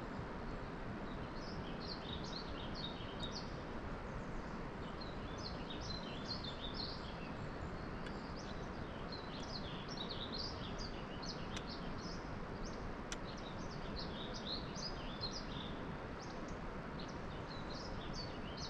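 Small birds chirping in quick, repeated high calls throughout, over a steady outdoor background noise.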